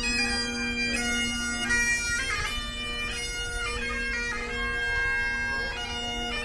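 Scottish bagpipes playing a tune: the chanter's melody moves from note to note over the unbroken, steady drone.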